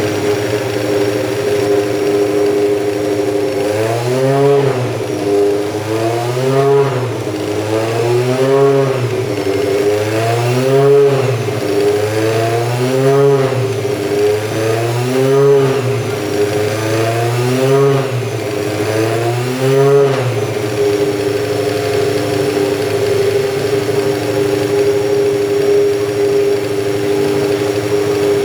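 BMW 320 Group 5 race car engine idling, then blipped about eight times in a steady rhythm, each rev rising and falling back, before it settles into a steady idle again.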